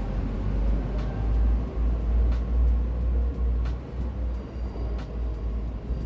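Low rumble of a train, with a few sharp clicks.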